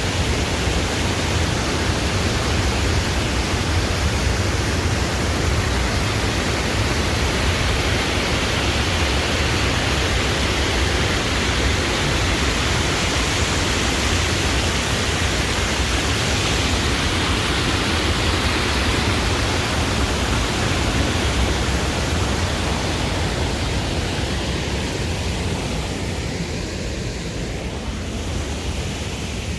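Steady, loud rushing noise with no distinct events, easing off a little near the end.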